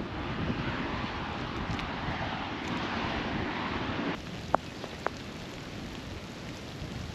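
Wind rushing over the microphone in light rain, a steady noisy rush that drops off suddenly about four seconds in. Two short sharp ticks follow about half a second apart.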